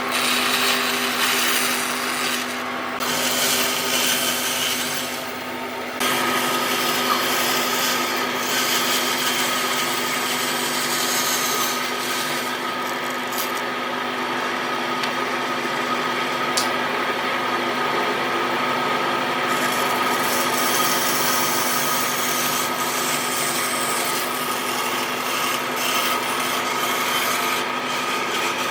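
A power tool working wood: a steady motor hum under continuous rasping, abrasive noise. The sound changes abruptly about six seconds in, then runs on evenly.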